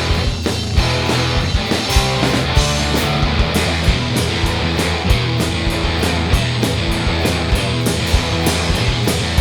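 Rock band playing a heavy instrumental passage: electric guitars and bass over drums, with a steady beat of sharp drum and cymbal hits that grows denser after about three seconds.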